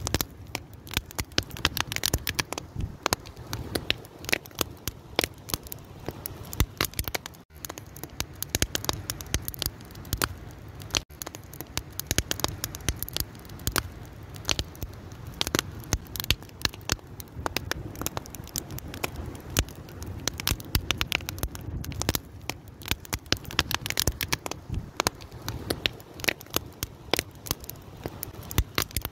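Fire crackling: dense, irregular sharp pops and snaps over a steady low rumble of burning, with two very brief gaps in the sound.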